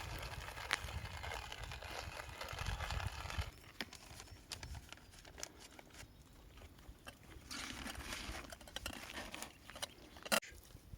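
Small handling noises: crunching and crinkling with scattered clicks, and a sharp louder click near the end.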